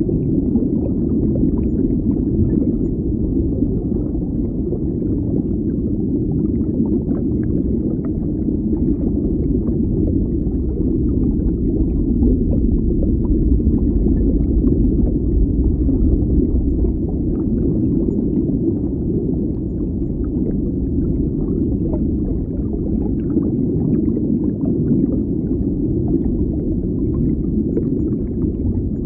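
Underwater water ambience: a steady, muffled low rumble of moving water with faint crackling ticks scattered through it.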